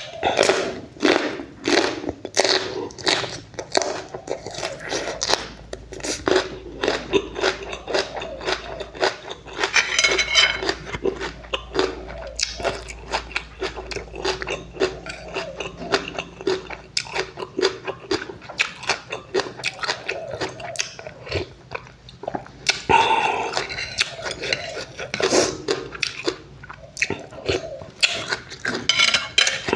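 A person chewing and biting food close to the microphone, with quick, crunchy chews throughout.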